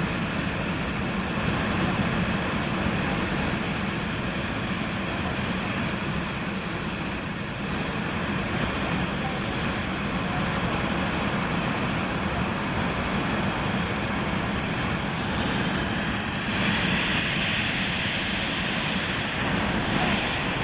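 Boeing 737 jet engines running steadily at high power as the airliner departs, a continuous broad engine noise with faint steady high whines, growing brighter in the upper range about two-thirds of the way through.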